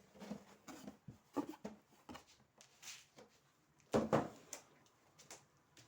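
Handling noises as a robot vacuum and its cardboard box are moved and set down: scattered knocks and light clunks, with two heavier thumps about four seconds in.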